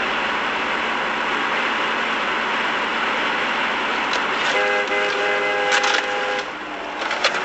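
Steady traffic and road noise from moving vehicles. A car horn sounds one long steady blast for about two seconds just past the middle, and a couple of sharp knocks come near the end.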